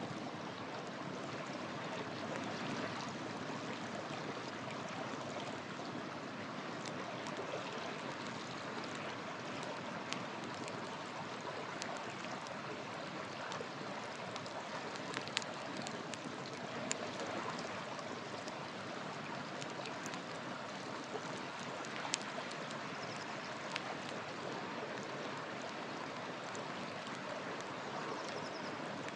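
River water flowing steadily, with occasional sharp pops and crackles from a wood campfire burning close by.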